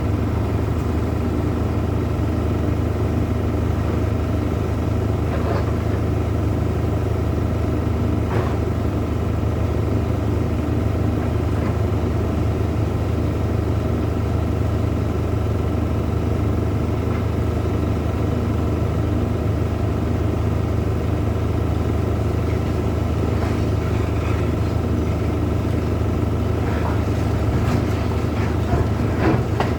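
Large engine running steadily at a constant speed, with a few faint knocks and clatters over it.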